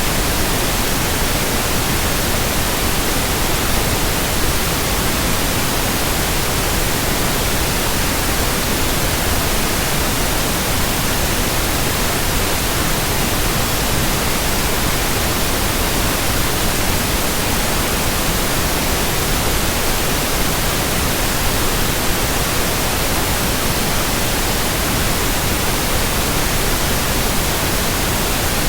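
Steady white-noise hiss, even across low and high pitches and unchanging throughout, with no swish or rhythm of turning blades.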